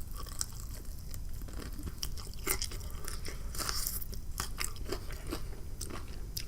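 Close-miked biting and chewing of crispy fried food, with irregular crunches.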